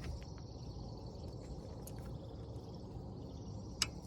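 Outdoor background noise with a steady high insect drone, most likely crickets. A few light clicks and one sharper click near the end.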